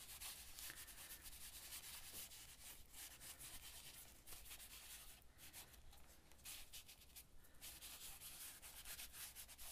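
Faint rubbing of a baby wipe over painted paper, a scratchy scrubbing hiss as it spreads and lifts acrylic paint.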